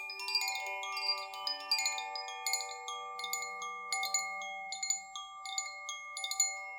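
Metal chimes ringing, struck lightly and often so that many clear tones overlap and hang in the air.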